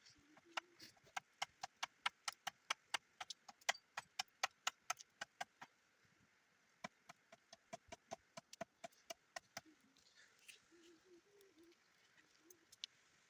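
A fast, even series of sharp knocks, about three to four a second, in two runs with a short pause between them, then a few scattered clicks.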